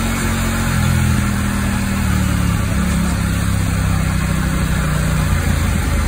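Yamaha MT-07's parallel-twin engine running steadily while the bike is held up in a wheelie on a stationary wheelie-training rig.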